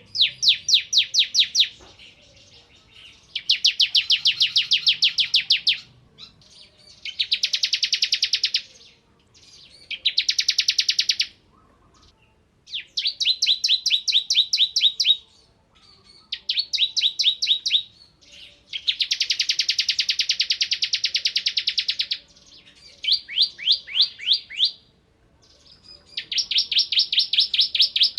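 Bar-winged prinia (ciblek) singing in repeated bursts of rapid, high chattering notes, each burst lasting one to three seconds with short gaps between. Some bursts run together into a fast continuous rattle, the 'ngebren' machine-gun style.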